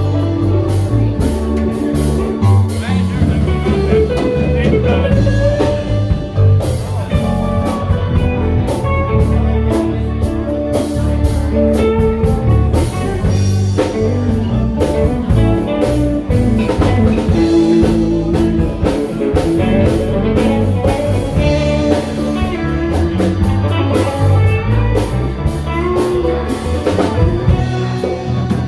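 Live band playing ragtime-style instrumental music with drums.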